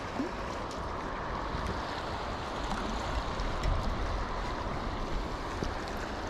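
Steady rush of water flowing from a lake spillway down a creek, with low wind rumble on the microphone.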